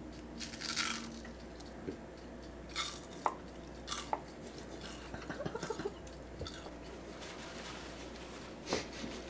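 A person chewing a bite of a deep-fried snack chip, with a few scattered crunches and wet mouth clicks. A single louder burst of noise comes near the end.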